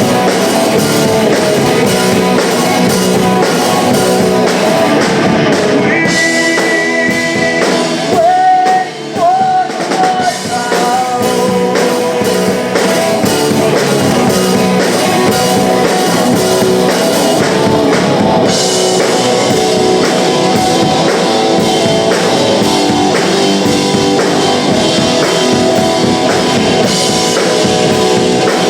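Live punk rock band playing: distorted electric guitars, bass and drum kit, with singing. The music thins out briefly about eight seconds in, with a held note and a short drop in level, and drives on harder with crashing cymbals from about two-thirds of the way through.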